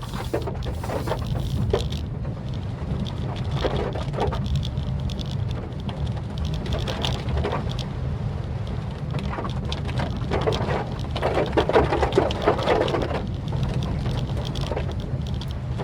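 Rain on a Maruti Suzuki Swift Dzire as it drives, over a steady low rumble of road and engine. The rain noise swells and fades irregularly and is heaviest a little past the middle.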